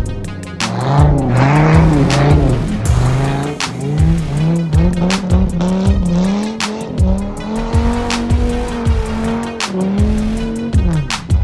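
Music with a steady beat over a car sliding in dirt, its engine revving up and down and its tyres squealing.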